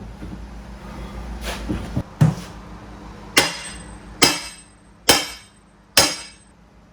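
Hammer blows during floorboard demolition: a couple of lighter taps, then five hard strikes about one a second, each ringing briefly.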